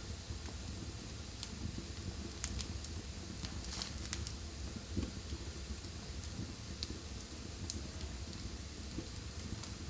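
Wood fire burning in a fireplace: a steady low rumble of flames with scattered sharp crackles and pops, a quick cluster of them about four seconds in.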